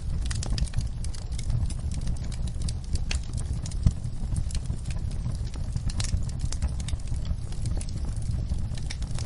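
Wood fire crackling and popping in irregular sharp snaps over a steady low rumble of burning, with one louder pop about four seconds in.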